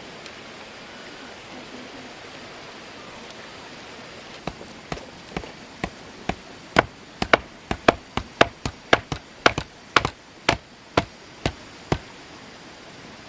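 About four seconds in, a tool begins striking wood or bamboo in a steady run of sharp blows, about two a second, which stops near the end. A steady background hiss lies under it.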